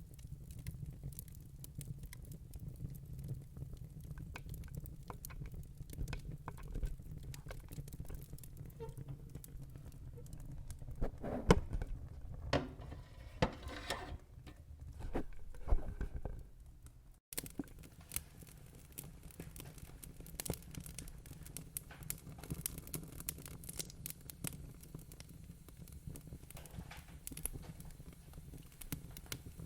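Wood fire in a fireplace crackling and popping over a low steady rumble of flames. A run of louder pops comes about halfway through, and then the sound cuts out for an instant.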